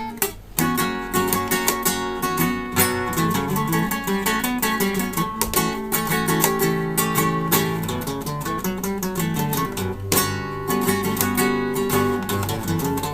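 Solo acoustic guitar playing flamenco fandangos, with many sharp strummed strokes among plucked notes, and brief pauses about half a second in and about ten seconds in.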